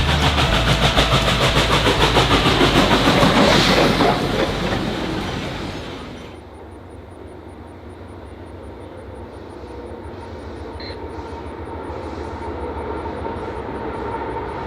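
Train passing close by with a rapid, even clatter of wheels on the rails, fading away about five seconds in. A lower, steady rumble then slowly builds.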